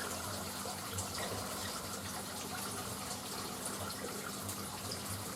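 Steady rush of running water, with a few faint, short high bird chirps.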